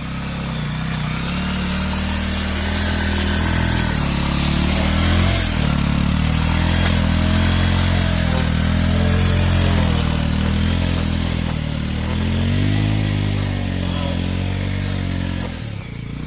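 Motorcycle engine revving, its pitch rising and falling over and over as the throttle is opened and eased, with a steady hiss over it.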